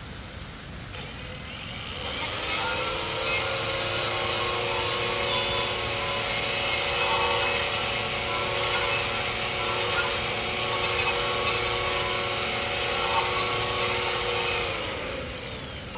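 An electric power tool's motor winds up about two seconds in and runs steadily with a rough grinding, rubbing noise for about twelve seconds, then winds down near the end.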